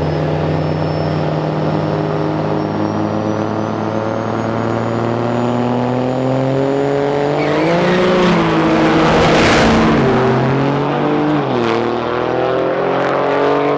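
Drag-racing vehicle's engine running hard, its pitch climbing with two brief dips like gear changes, and a thin high whine rising above it. It is loudest about nine seconds in.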